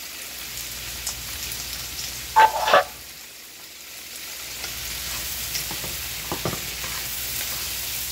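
Diced onions and bell peppers sizzling as they sauté in a hot frying pan, stirred and scraped with wooden spatulas. A pair of loud, sharp knocks comes about two and a half seconds in.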